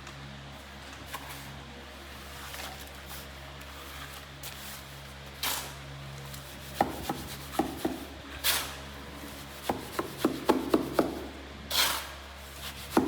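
A run of irregular knocks and scrapes, as of hard objects being handled, setting in about halfway through over a steady low hum.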